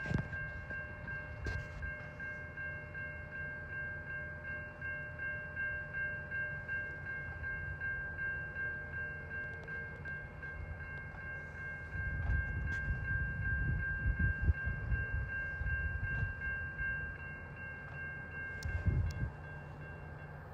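NJ Transit train running past with a low rumble that grows louder in the middle, under one steady high-pitched tone held almost the whole time.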